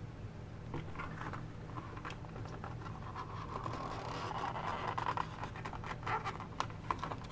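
A scalpel scratching and cutting at toy packaging card: a run of small clicks and scratches, with a longer scrape in the middle.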